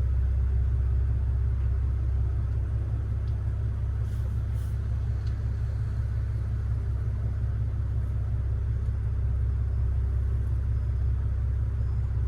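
BMW 540i's B58 turbocharged inline-six, catless and straight-piped, idling steadily with a low, even drone and no revving.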